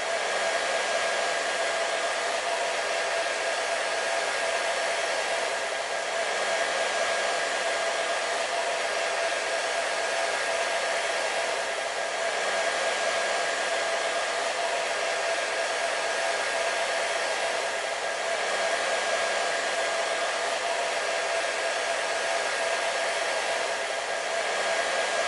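Hair dryer running steadily: a constant rush of blown air with a steady motor whine under it, swelling and easing slightly about every six seconds.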